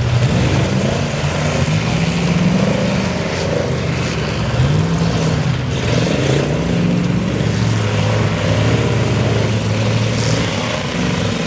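Race trucks' engines revving hard, several at once, their pitch climbing and dropping again and again as they accelerate and lift off.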